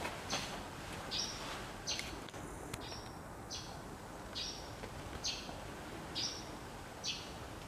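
A bird chirping again and again, one short high chirp a little under every second, evenly spaced, over a steady outdoor background noise.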